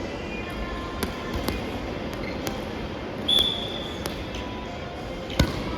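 Soft volleyball play: a series of sharp slaps and thuds from the ball being hit and bouncing, the loudest near the end. A short high squeak comes a little past halfway.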